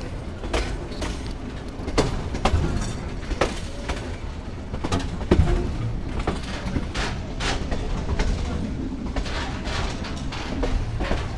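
Yangon Circular Railway passenger train running, heard from inside a carriage: a steady low rumble with irregular knocks and clatter from the wheels and coach body.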